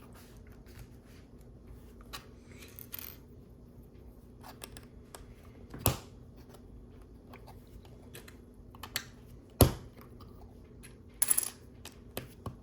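Hard plastic LEGO pieces clicking and clattering as they are handled and pressed together: scattered single clicks, the loudest a little under ten seconds in, and a short rattle of several clicks near the end.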